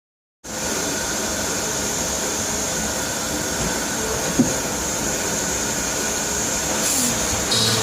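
CNC machine running steadily, a constant hum and hiss with a high whine, and a single sharp click about four seconds in.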